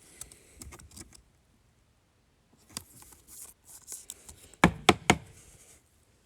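Trading cards and their packaging being handled: scattered light clicks and rustling, then three sharp clicks close together near the end.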